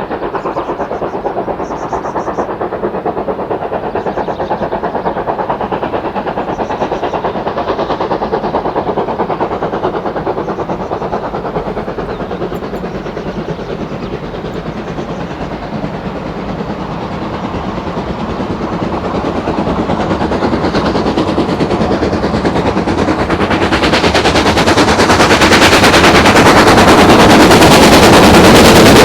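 Steam locomotive working hard, its exhaust beats coming in a rapid, continuous chuff. It grows steadily louder through the second half as the train approaches.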